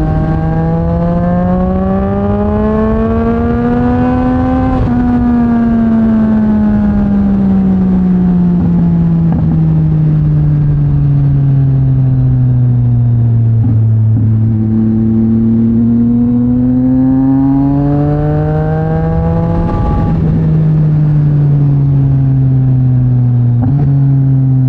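Yamaha MT-09 SP's three-cylinder engine, breathing through a Mivv X-M50 aftermarket exhaust, under way on the road. The revs climb for about five seconds, fall away slowly, climb again and ease off, with a sudden step down in revs near the end. A steady rush of wind and road noise sits underneath.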